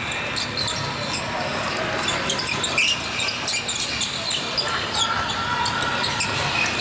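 Basketball game sounds in a gym: a basketball bouncing on the court amid players' and spectators' voices, with short high squeaks and clicks throughout.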